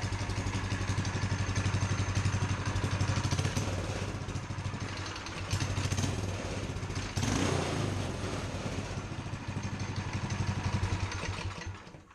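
Small single-cylinder go-kart engine running through a newly fitted exhaust silencer, its speed rising and falling a little a couple of times before it shuts off near the end.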